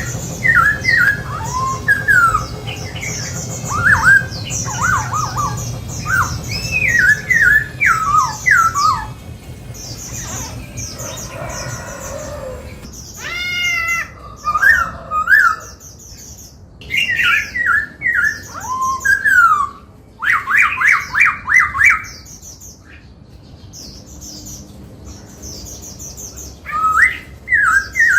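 Black-throated laughingthrush singing: a long run of varied, gliding whistled phrases, broken by short pauses, with a fast run of quickly repeated notes about two thirds of the way through.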